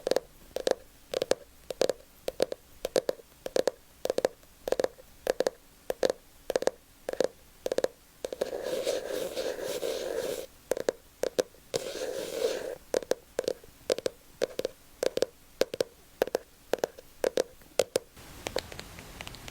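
Close-miked ASMR trigger sounds: a steady run of short, soft taps, about two a second, broken twice near the middle by a second or two of rustling noise.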